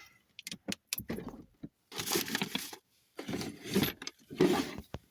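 Objects being handled and shifted about in a cluttered space: scattered sharp clicks and knocks, and three short stretches of rustling and scraping.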